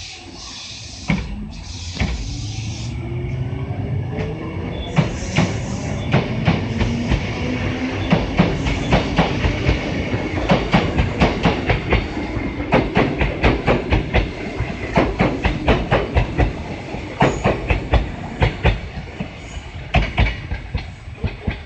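Electric commuter train, Kintetsu 6020 series, accelerating away: the traction motor whine rises in pitch over the first several seconds, then the wheels clatter over the rail joints in quick, regular clicks that come thick and fast before easing near the end.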